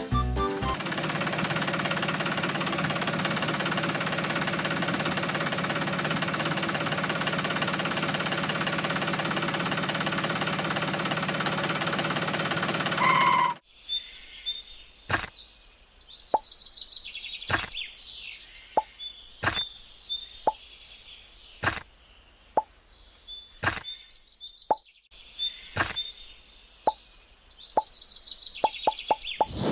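A small motor running steadily for about thirteen seconds, then cutting off suddenly. Scattered sharp knocks and plops follow at irregular intervals, with faint high chirps between them.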